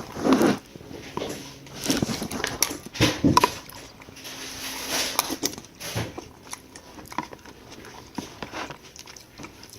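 Scattered small clicks, knocks and rustles of handling, with a brief louder rustle right at the start.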